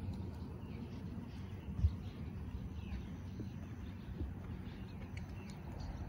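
Birds chirping faintly in the background over a steady low rumble, with one dull thump about two seconds in.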